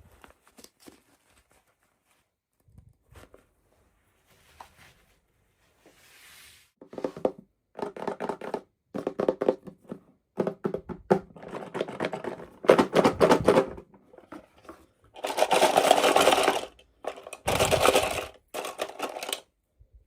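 Toy packaging being handled and opened: soft scattered clicks and knocks, then repeated bursts of crinkling and tearing from about a third of the way in, the longest and loudest near the end.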